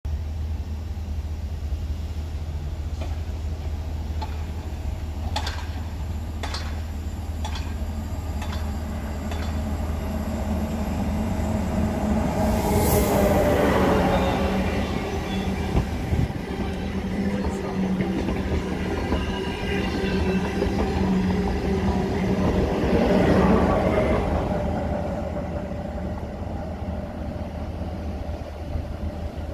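Renfe Alvia passenger train running through a station. Faint rail clicks come first as it approaches, then it grows loud as it draws alongside, hums steadily for about ten seconds, swells a second time, and fades.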